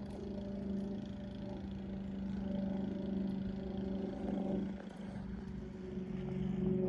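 A motor running with a steady low hum. It eases off about five seconds in, then comes back louder.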